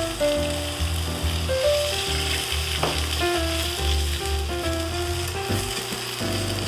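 Cucumber slices sizzling in hot cooking oil in a pan on high heat as they are stir-fried and turned with chopsticks, with background music playing.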